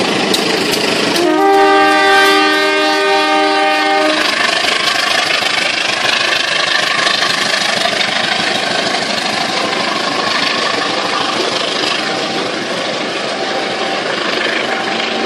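CC201 diesel-electric locomotive (a GE U18C) sounds its multi-tone horn in one long chord for about three seconds, starting about a second in. Then comes the steady rumble and rattle of the passenger coaches rolling past on the rails, slowly fading.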